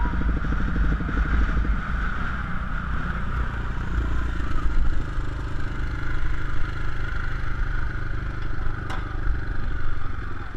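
450cc four-stroke motocross bike engine running hard under race throttle, its pitch shifting as the throttle changes. A single sharp click about nine seconds in.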